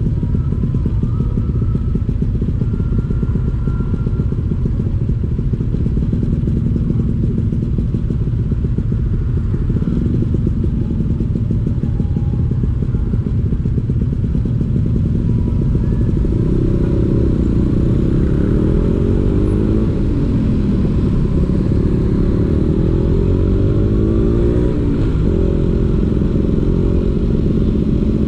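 Vespa PX 150's two-stroke single-cylinder engine running through a DRC Victory racing exhaust on the move. In the second half the engine note rises and falls several times as the throttle changes.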